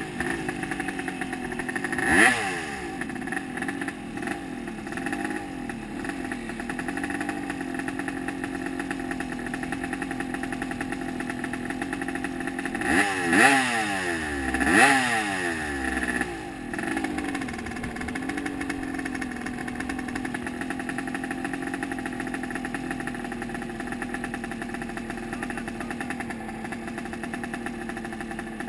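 Motocross motorcycle engine running at a steady, low pitch, revved up sharply about two seconds in and twice more around the middle before settling back.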